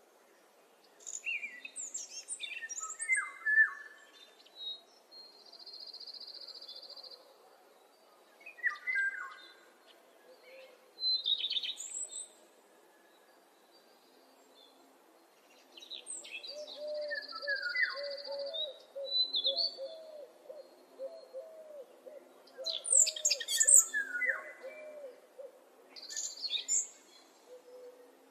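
Wild songbirds singing in short bursts of chirping song phrases with quiet gaps between, including a steady buzzing trill held for a second or two, twice. From about halfway through, a lower bird's run of repeated short calls goes on underneath.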